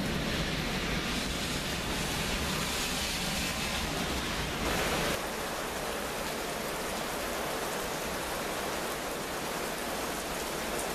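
Steady hiss of heavy thunderstorm rain. A low rumble underneath cuts off abruptly about five seconds in, leaving only the rain.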